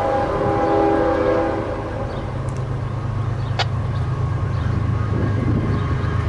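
Diesel freight locomotive horn sounding a chord that cuts off about one and a half seconds in, then the steady low rumble of the locomotive engines running on.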